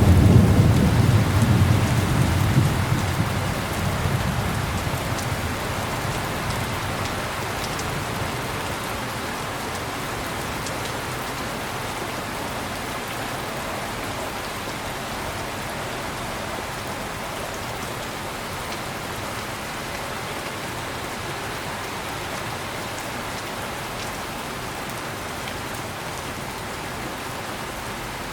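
Heavy rain falling steadily, with a low roll of thunder at the start that dies away over the first few seconds.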